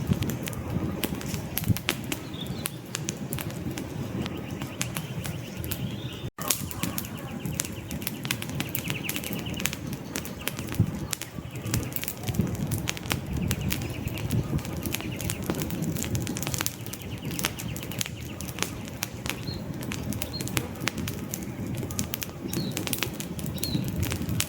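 Wood campfire burning, with many sharp crackles and pops over a steady low rumble of flames. A few short, faint bird chirps come through, mostly near the end, and the sound cuts out for an instant about six seconds in.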